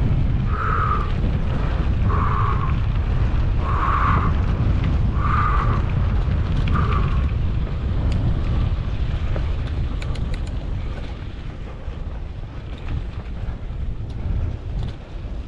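Wind buffeting the microphone of a moving mountain bike, a loud steady rumble. Over the first seven seconds five short, rough sounds come about a second and a half apart, then stop.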